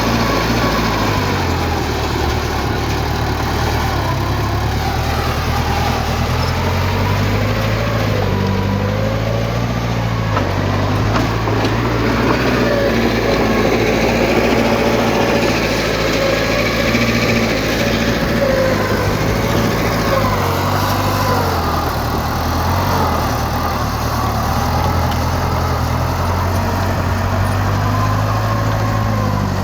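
Diesel engine of heavy earthmoving machinery running steadily, its pitch rising and falling as the load changes.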